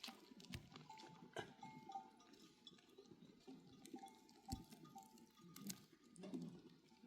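Faint sounds of a goat and sheep flock: scattered small clicks and knocks with faint, intermittent bell-like tinkling.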